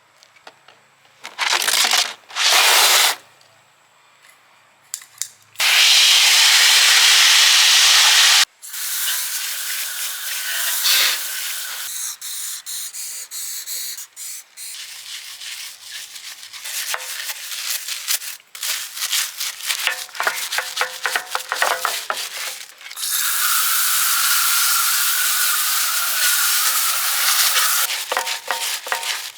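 Car-cleaning sounds: two short spray hisses, then a longer steady spray of a few seconds, followed by quick scrubbing and rubbing strokes and another steady hiss with a faint whine near the end.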